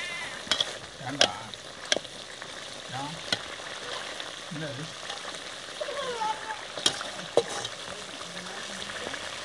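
Quail pieces sizzling in thick masala gravy in a large metal pan, stirred with a slotted metal ladle that clicks against the pan about half a dozen times.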